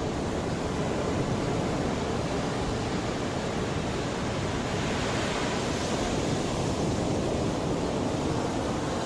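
Sea waves washing in, a steady rush of surf, with one wave swelling in the higher hiss about five seconds in.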